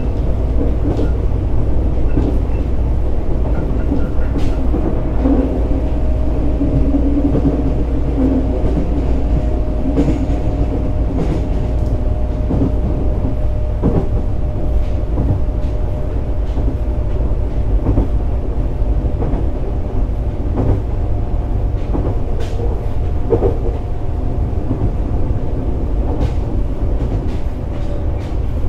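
Running sound of a Fukuoka City Subway 1000N series electric train at steady speed, heard from inside the car: a constant low rumble of wheels on rail with a faint steady hum and scattered clicks and knocks from rail joints.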